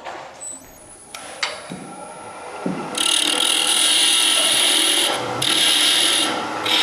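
Wood lathe running while a turning tool cuts a small spinning wooden spindle. From about three seconds in, the cutting becomes a loud, hissy scraping in three stretches with two short breaks.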